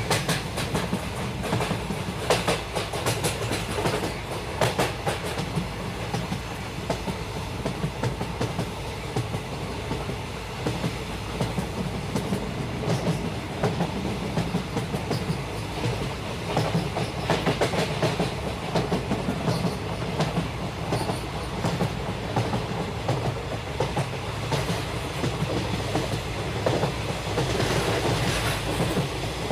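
Indian Railways passenger coach running at speed: a steady low rumble of wheels on the track, with a continual irregular clatter as the wheels pass over rail joints.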